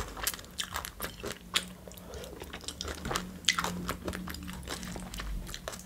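A person chewing a mouthful of food close to a microphone, with many irregular wet mouth clicks and smacks.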